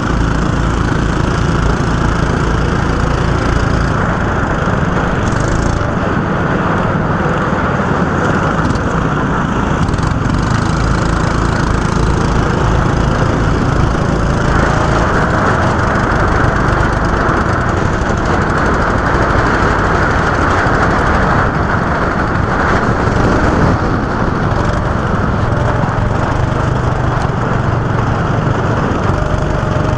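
Go-kart engine running steadily at speed, a dense loud drone whose pitch slowly rises and falls with the throttle.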